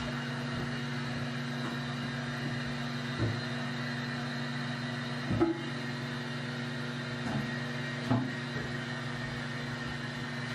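Toilet tank refilling after a flush: the fill valve runs with a steady hissing hum, with a few light knocks about 3, 5½ and 8 seconds in.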